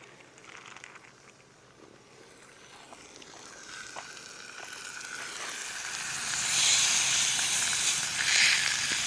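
Pork chop sizzling in a hot oiled cast iron skillet, faint at first, then building to a loud sizzle from about halfway through, with a few light knocks as it goes in.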